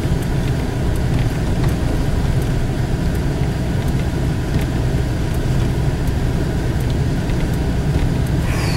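Steady vehicle cabin noise while driving slowly: engine and tyre rumble on a snow-covered road, with a few faint ticks.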